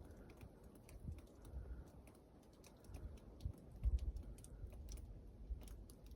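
Wind gusting against the microphone in irregular low rumbles, strongest a little past the middle, with scattered light ticks throughout.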